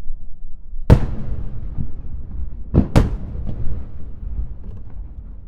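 Aerial fireworks shells bursting: a loud boom about a second in, then two booms close together near three seconds, over a continuous low rumble.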